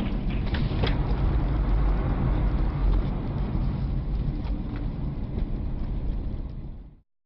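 Moving car's road and engine noise picked up by a dashcam: a steady low rumble, with a few light knocks in the first second. It fades and cuts off abruptly near the end.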